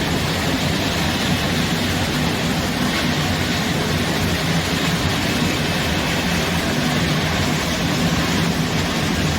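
Steady machine running noise: an even rushing sound with a low hum, holding constant.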